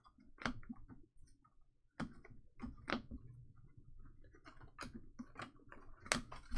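Light, irregular clicks and taps of trading cards being handled and sorted by hand.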